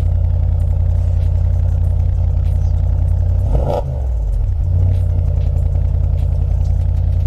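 Audi S6 C7's 4.0-litre twin-turbo V8 idling with a steady low rumble through an exhaust with the mid muffler and resonators deleted and an X-pipe fitted, given one quick throttle blip about halfway through that rises and falls back to idle.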